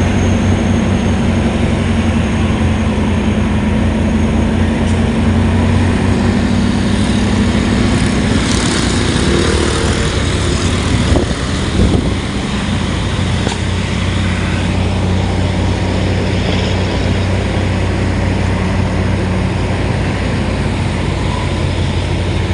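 A vehicle engine running steadily, a low hum under a constant hiss, with a brief rise in the hiss about halfway through.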